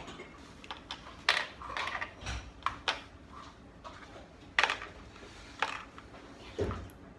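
Small plastic toy pieces clicking and clattering as they are handled, with about a dozen irregular knocks, a few of them sharp and loud.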